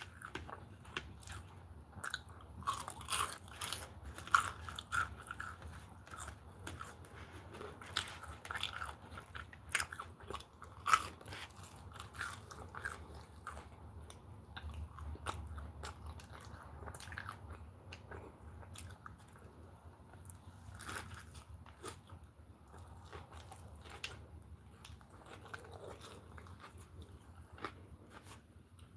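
Close-up chewing and biting of a fried chicken burger: irregular wet mouth clicks and crunching, with a few louder crunchy bites in the first dozen seconds.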